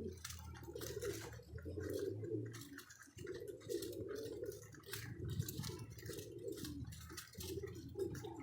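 Many domestic pigeons cooing at once, overlapping and near-continuous, with scattered short sharp clicks over the top.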